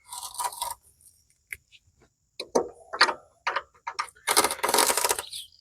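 Hand work at a lawn tractor's rear axle: irregular metallic clinks and scrapes, then a longer scraping rasp about four and a half seconds in.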